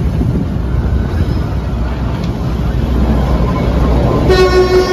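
Kalka–Shimla narrow-gauge toy train running with a steady low rumble. Near the end a single horn blast sounds, one steady note lasting about a second.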